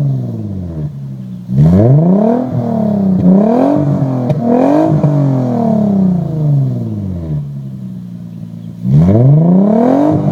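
Nissan 300ZX's V6 exhaust, through custom 2.5-inch piping and Kakimoto mufflers, being free-revved while stationary. The revs drop back to idle at the start, a sharp rev comes about a second and a half in with a few quick blips, and then the revs fall slowly back to idle. Another sharp rev comes near the end.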